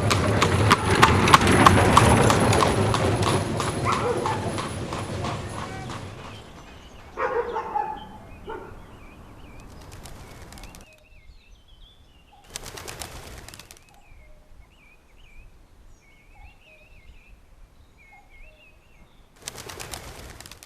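Layered medieval-town sound effects. A loud, busy mix full of rapid clicks fades out over the first six seconds, leaving pigeons cooing and small birds chirping. A few short noisy rushes come near the middle and at the end.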